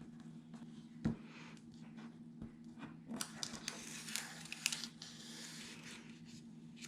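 Paper pieces being handled on a craft table: a light tap or two, then a couple of seconds of faint rustling and crinkling about halfway through.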